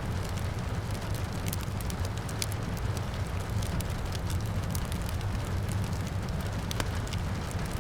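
Wood fire crackling with scattered sharp pops over a steady hiss of rain and a low, even rumble.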